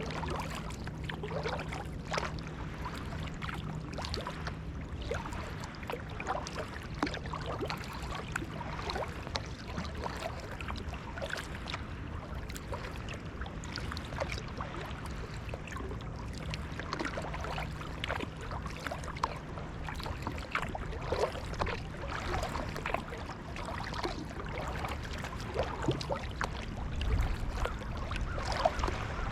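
Sea kayak being paddled on salt water: paddle blades dipping with small splashes and water trickling off them, over a steady wash of water against the hull.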